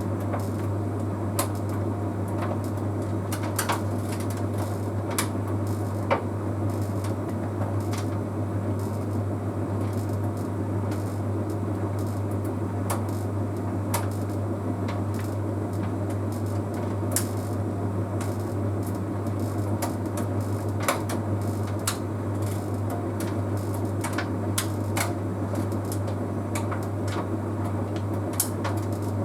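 Bosch Series 6 heat pump tumble dryer running mid-cycle on Easy Care: a steady low hum under the rumble of the turning drum, with irregular light clicks and taps scattered throughout.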